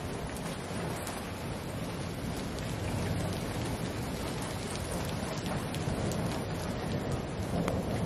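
Heavy rain pouring steadily, with many sharp drops ticking on nearby hard surfaces.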